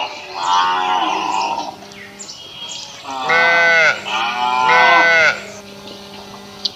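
Cow mooing: one shorter call about half a second in, then two loud calls about three and four and a half seconds in.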